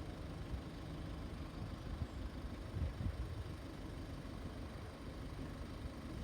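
Low, steady rumble of road vehicle engines idling while queued at a closed level crossing, swelling slightly about three seconds in.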